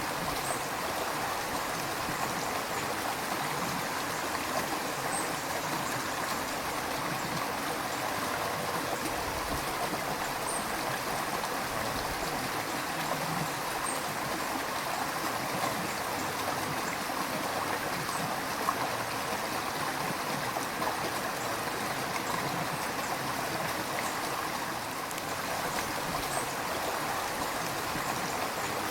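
A river flowing steadily, its water rushing and gurgling in an even, unbroken noise.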